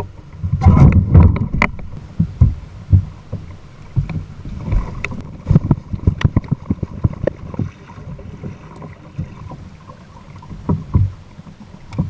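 Kayaks going down a whitewater rapid: churning, splashing water with many irregular knocks and thumps, loudest in the first couple of seconds.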